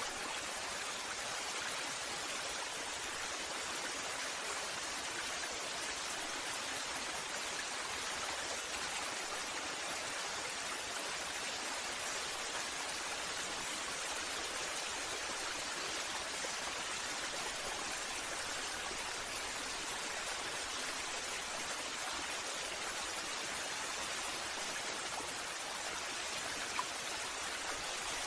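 Waterfall: water falling and rushing with a steady, even roar.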